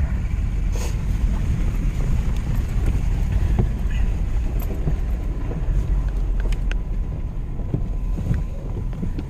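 Van cabin noise while driving: a steady low rumble of engine and road, with a few faint clicks.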